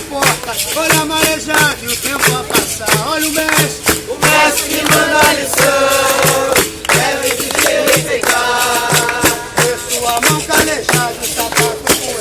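Capoeira roda music: berimbau with rattle and hand percussion keeping a steady beat of about two strokes a second, under sung melody lines.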